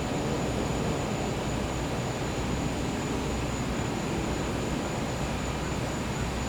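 Gas-powered generator running with a steady low hum, with a high, steady insect trill over it.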